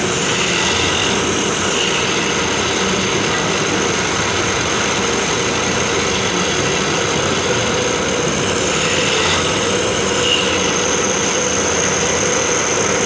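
Automatic drilling machine running steadily, a loud dense mechanical noise with a faint high whine. The tone changes briefly about a second in and again around nine to ten seconds in.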